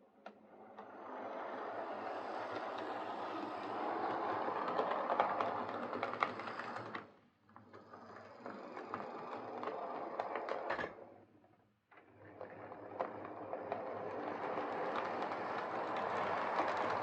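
OO gauge Hornby Class 43 HST model train running on layout track: a steady motor whirr and wheel rattle with scattered clicks over the rail joints. The sound drops out briefly about seven seconds in and again about eleven seconds in.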